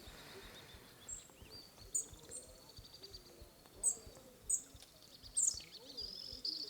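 Faint outdoor ambience: small birds giving short, sharp high chirps every second or so over a steady, high, pulsing trill.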